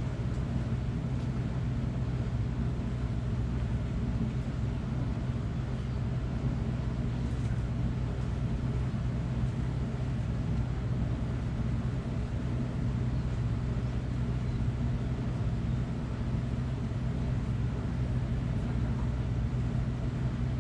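Steady low machine hum, even throughout with no change in pitch or level.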